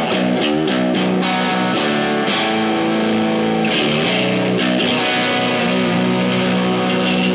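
Electric guitar tuned to B standard, a single-coil Jazzmaster, played through a Wyong Rd Electronics Keris overdrive/fuzz/boost pedal into a clean amp with the guitar's volume knob turned down. A few quick strums near the start, then held chords ringing out.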